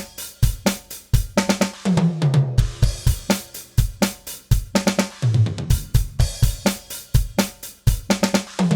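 DrumGizmo virtual drum kit playing a groove of kick, snare, hi-hat and cymbals, with its overhead microphone tracks mixed in so the cymbals and kit bleed are heard along with the close mics.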